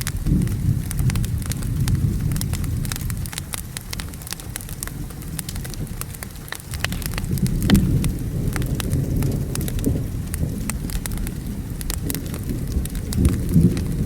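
Wood fire crackling with frequent sharp pops over steady rain, while low rolling thunder swells near the start, again about halfway through, and once more near the end.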